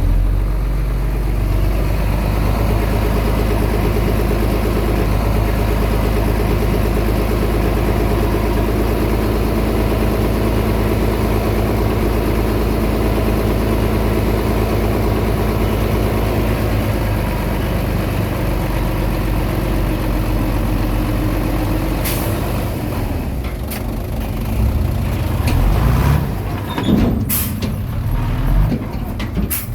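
Komatsu D20P bulldozer's diesel engine running steadily under load. In the last several seconds the sound turns uneven, with sharp clanks and knocks.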